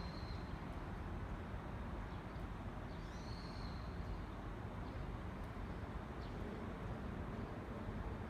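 A bird calling faintly with short high whistles, once right at the start and again about three seconds in, over a steady low outdoor rumble.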